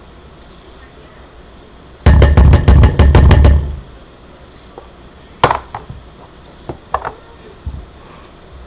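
Spoon knocking repeatedly against the dish while frosting is dolloped in: a quick, loud run of about eight knocks over a second and a half, then one sharp knock and a few lighter taps.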